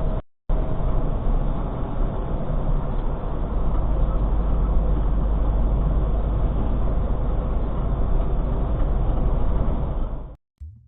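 Steady engine and road drone inside a semi-truck's cab, as a dashcam microphone picks it up. It cuts out for a moment just after the start and stops shortly before the end.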